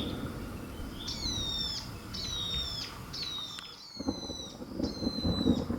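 A bird calling over and over: short, high, slightly falling whistled notes, one about every half second to second. A low rumble of thunder runs beneath them and grows louder in the second half.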